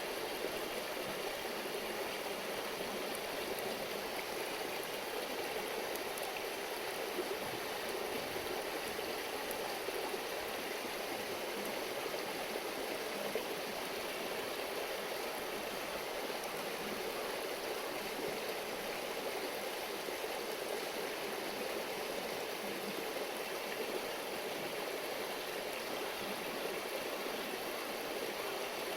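River stream babbling steadily, with a couple of faint clicks.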